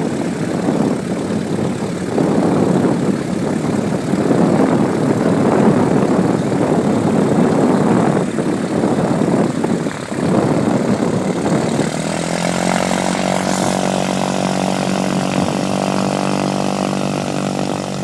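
Cessna 162 Skycatcher's Continental O-200 four-cylinder engine and propeller running on the ground as the plane pulls away: a rough, rumbling roar for the first dozen seconds, settling about twelve seconds in into a steady, even drone.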